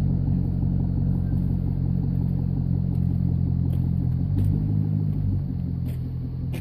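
Chevrolet Corvette C6's V8 engine running steadily at low revs, a deep rumble whose pitch drops a little about five seconds in.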